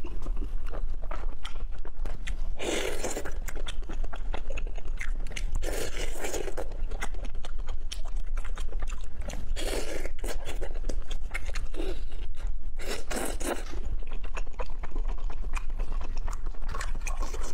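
Close-miked chewing and crunching of seafood, with wet clicking mouth sounds throughout and louder bites about every three to four seconds.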